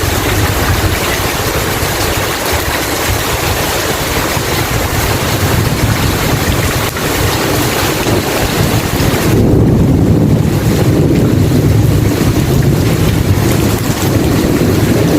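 Heavy rain falling in a steady hiss over a low, continuous rumble of thunder. The rumble grows heavier about nine seconds in.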